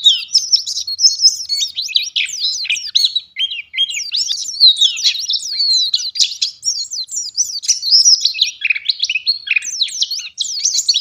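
White-eye (pleci) singing a fast, unbroken twittering song of high, sharp chirps and quick up-and-down whistles.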